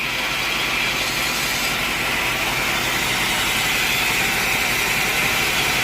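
Sawmill machinery running steadily, with a constant loud hiss.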